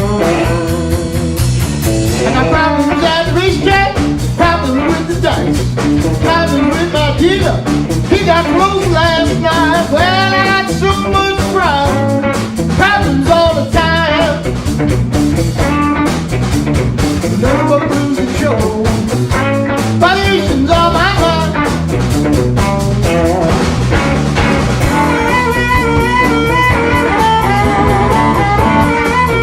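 Electric blues band playing, with guitar and a pitch-bending lead line over the rhythm section.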